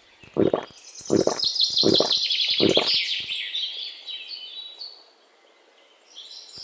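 Birds chirping and twittering over a short knocking about twice a second; the knocking stops about three seconds in and the chirping fades to a faint hush near the end.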